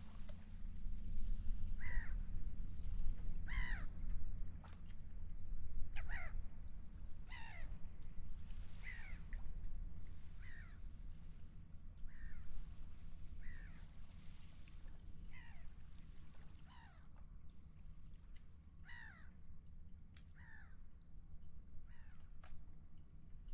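A gull calling over and over, a short downward-falling cry about every second and a half, over a steady low rumble.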